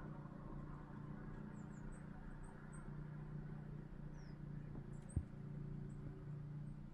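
A steady low mechanical hum, like a distant engine, with faint short high chirps like small birds, and a single sharp click about five seconds in.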